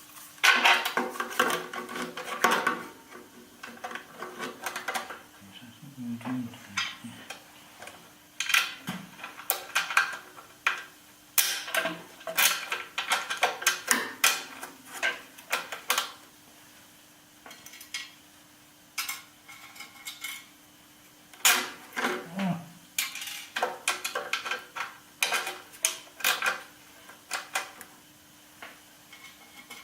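Metal parts and hand tools clinking and knocking together in irregular strikes, some briefly ringing, as steel bandsaw parts are fitted and tightened by hand. A faint steady hum runs underneath.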